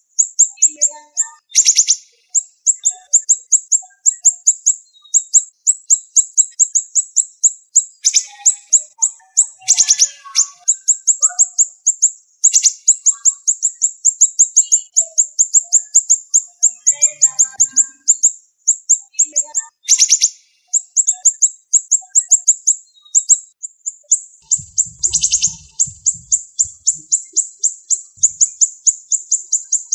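Siri-siri songbird singing a fast, tightly packed stream of high, sharp chirps, almost without pause, with a few louder piercing notes scattered through it.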